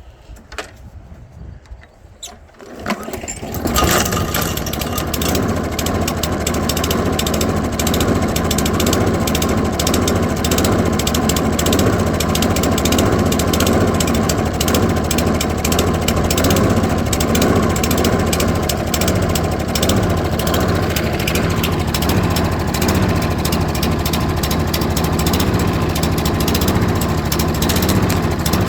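Toro lawn mower's small engine starting about three seconds in, then running steadily but unhappily, which the owner takes for an engine not running well and needing work.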